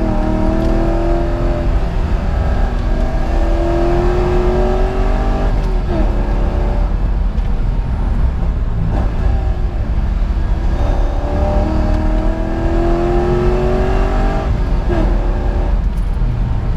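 2003 Corvette C5 Z06's LS6 V8 heard from inside the cabin, accelerating hard: the engine note climbs for a few seconds at a time, breaks at each gear change and climbs again, over a steady low road rumble.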